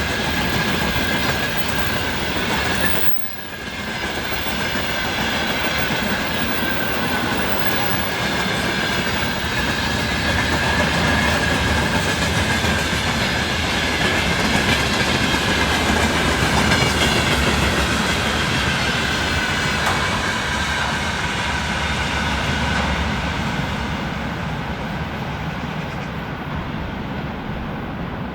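Electric train passing close by, its wheels clattering over the rail joints under a steady, slowly falling whine. The sound briefly drops out about three seconds in, then fades a little near the end as the train draws away.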